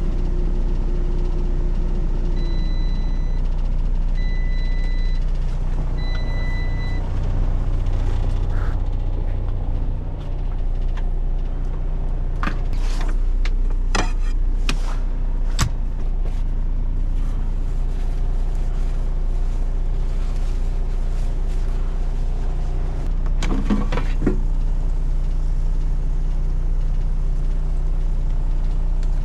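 Semi truck's diesel engine idling with a steady low hum, heard from inside the cab. About two seconds in, a steady appliance hum stops and three short electronic beeps sound. A few light clicks and knocks follow later.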